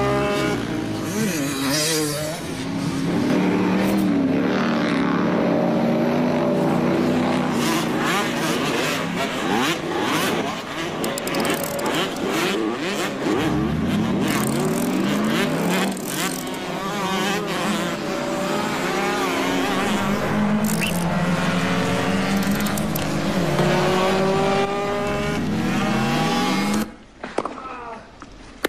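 Revving, race-car-like engine sounds that rise and fall in pitch again and again, cutting off suddenly near the end.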